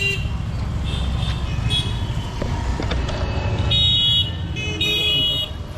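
Road traffic running, with vehicle horns honking several times: short high-pitched toots, then two longer, louder honks in the second half.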